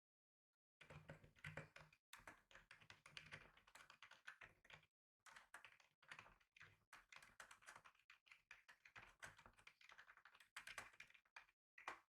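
Quiet typing on a computer keyboard: fast runs of key taps that start about a second in, with short pauses around two seconds, around five seconds and near the end.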